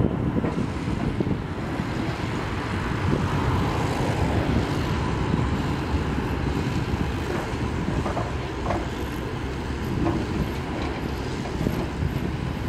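Steady aircraft engine and airflow rumble, heavy in the low end, with no change.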